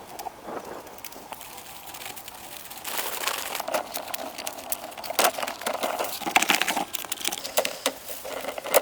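Dry crackling and crinkling with many sharp clicks and snaps, getting louder and busier about three seconds in.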